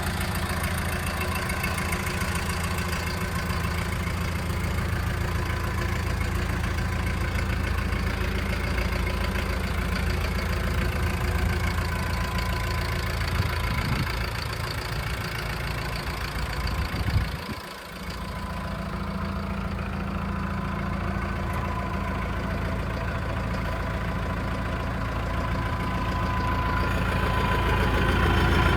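Kubota M108S tractor's four-cylinder diesel engine idling steadily. There is a brief sharp sound and a short drop in level about seventeen seconds in, and it grows a little louder near the end.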